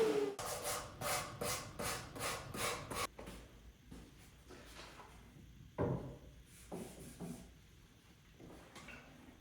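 A power sander winding down and stopping right at the start. Then wood is rubbed by hand in quick back-and-forth strokes, about three a second, for about three seconds, followed by a few scattered rubs and knocks.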